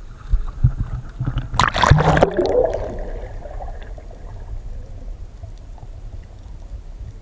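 Water splashing and gurgling: one loud rush of water about two seconds in that fades away over the next second, over a steady low rumble.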